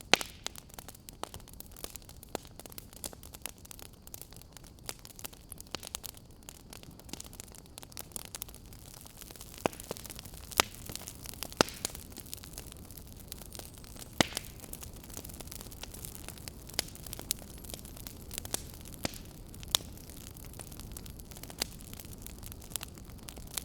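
Fireplace fire crackling: a steady soft hiss with frequent sharp pops, a few of them much louder than the rest.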